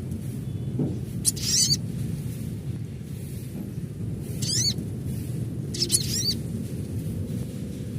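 Sogon (sogok ontong) sunbird calling in three short bursts of rapid, high, zig-zagging chirps, over a steady low background rumble.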